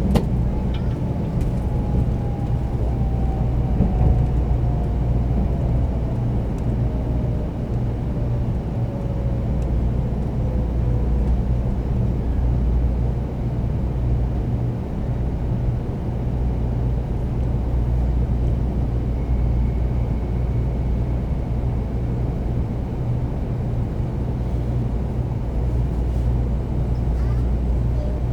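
Cabin running noise of a Shinkansen 300 series train, heard from inside a Green car: a steady low rumble. A thin whining tone falls slowly in pitch over the first ten seconds or so, as the train slows.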